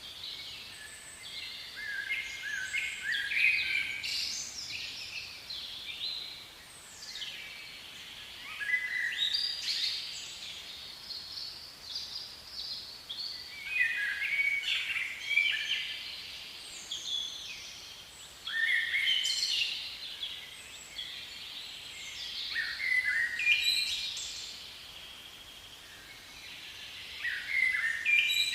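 Songbird singing in phrases of varied, quick chirps and whistled notes, each a few seconds long with short pauses between, repeated about every five seconds over a light background hiss.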